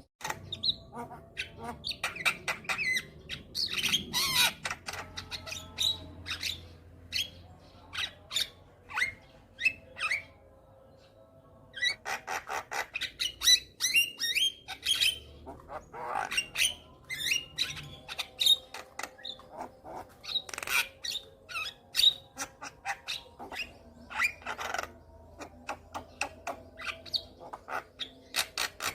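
Javan myna (jalak kebo) in full varied song: a rapid, busy run of harsh squawks, clicks and short whistled chirps. The song pauses briefly about halfway through, then resumes.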